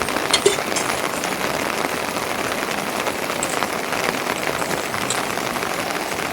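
Steady rain falling, an even hiss of drops, with a few sharper drip ticks about half a second in.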